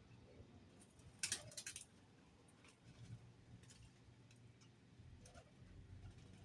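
Near-quiet background with a short flurry of light, sharp taps a little over a second in, followed by a few faint scattered ticks.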